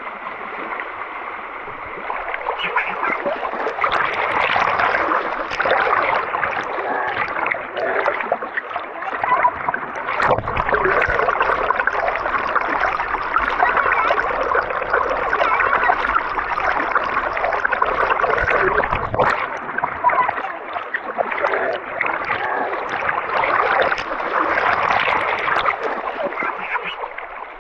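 Rushing, splashing water of a forest stream running high after rain, a dense steady noise that fades out near the end.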